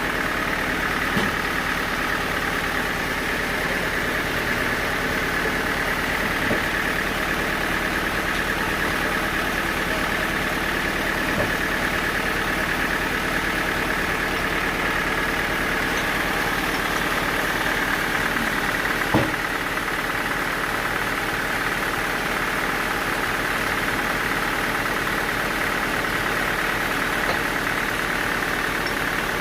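Sawmill machinery running steadily, with a few scattered knocks, the loudest about 19 seconds in.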